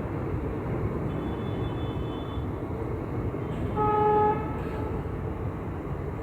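Indian Railways passenger train rolling through the station with a steady rumble, and one short horn toot about four seconds in.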